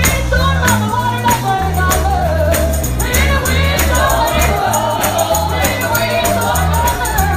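Live church gospel music: a lead voice singing over a stepping bass line, with tambourine hits keeping the beat.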